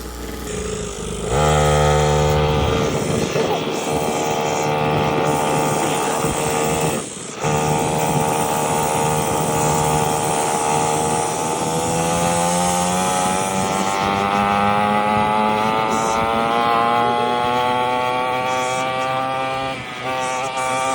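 50cc two-stroke pit bike engine running under way at fairly steady revs. It cuts out briefly about a third of the way in, then the revs climb slowly over the second half.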